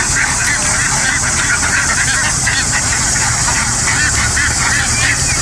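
A large flock of domestic ducks calling all at once, a dense unbroken chorus of quacks, over a steady low rumble.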